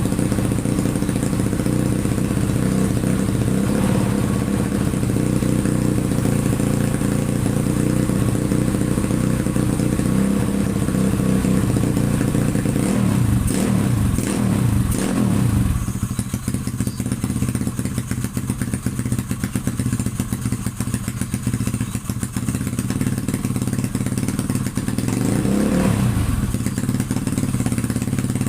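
A vehicle engine idling steadily, revved a few times around the middle, then settling to a slightly quieter idle with one short blip of the throttle near the end.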